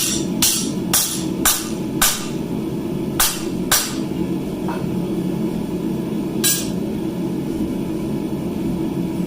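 Hammer blows on an anvil straightening a forged clamp piece: seven ringing strikes in the first four seconds, then one more about six and a half seconds in, over a steady low hum.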